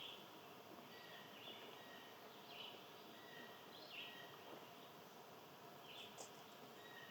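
Faint wild songbirds calling: short chirps every second or two, with thin whistled notes between them, over a steady low hiss.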